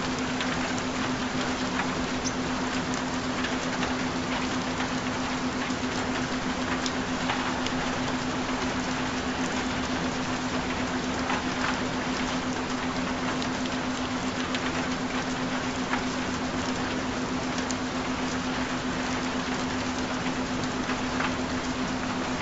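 Steady rain, an even hiss with scattered drops, over a continuous low tone that is the track's binaural frequency layer.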